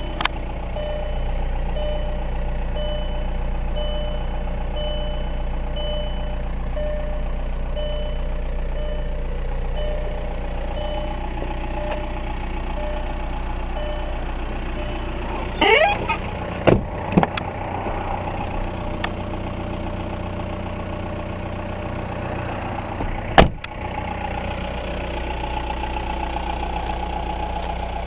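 Volkswagen Jetta TDI's 1.9-litre four-cylinder turbodiesel idling steadily, with a faint repeating beep over the first ten seconds or so. A few loud knocks come about 16 to 17 seconds in, and one sharp bang, the loudest sound, about 23 seconds in, while the engine keeps idling.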